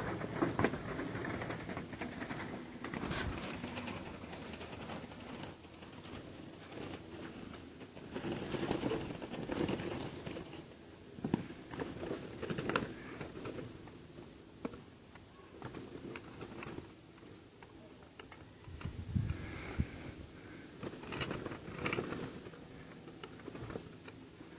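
A caught dove fluttering and scrabbling in a wire bird trap: uneven bursts of wing rustling and light knocks every few seconds.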